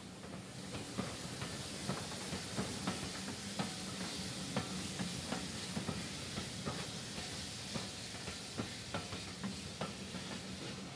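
Passenger coaches of a train rolling slowly past: a steady hiss with a low rumble and scattered light clicks.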